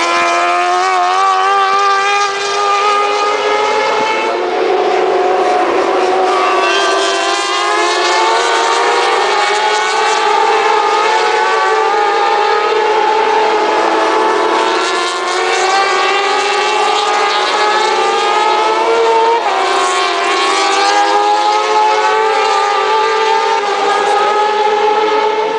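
Several motorcycle engines running together, loud and continuous, their pitches gliding slowly up and down against one another.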